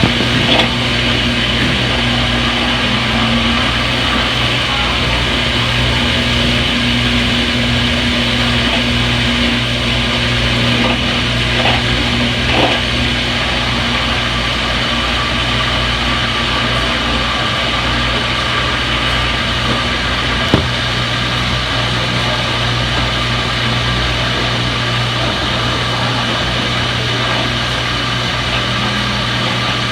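Front-loading washing machine in its spin cycle: a steady motor hum and whir at a constant speed, with a single sharp click about two-thirds of the way through.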